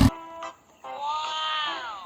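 Light background music, with a drawn-out wailing cry starting about a second in that falls in pitch at the end.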